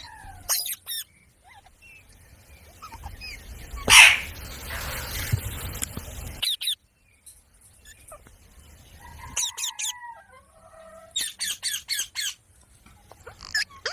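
Rose-ringed (Indian ringneck) parakeets calling: short shrill chirps and squawks in quick runs, with one loud harsh burst about four seconds in.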